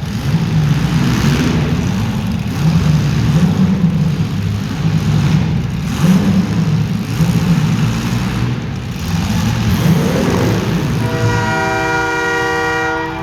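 Several demolition-derby compact car engines revving, their pitch rising and falling. A horn sounds one steady blast for about two seconds near the end.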